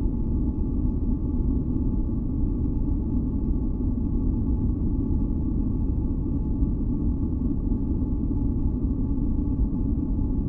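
Continuous masking noise, a deep, low rumble-heavy hiss with no changes, with a few faint steady tones hovering above it.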